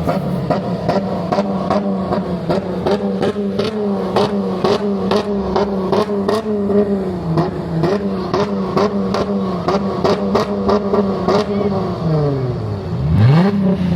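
A car engine held at high revs for a long stretch, its pitch steady and wavering a little, with regular sharp pops over it. Near the end the revs drop sharply and climb back up.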